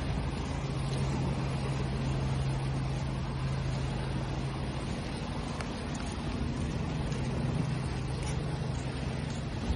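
Steady rushing noise of waves with a low motor drone running underneath; the drone's pitch steps up about halfway through.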